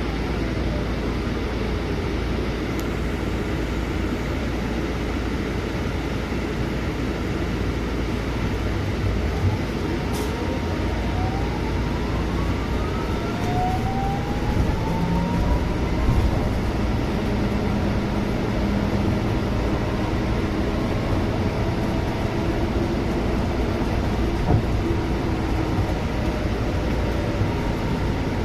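Scania city bus running on the road, heard from inside the cabin: a steady engine and road rumble, with several rising whines around the middle as it picks up speed.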